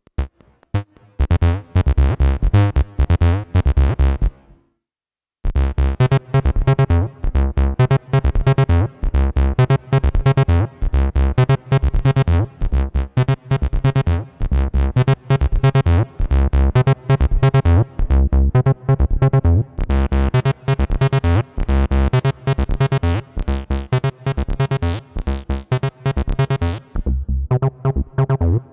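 Behringer TD-3-MO analog bass synthesizer playing acid bassline sequences of rapid repeating notes. One pattern stops about four seconds in, and after a second's pause a new sequence starts and keeps running.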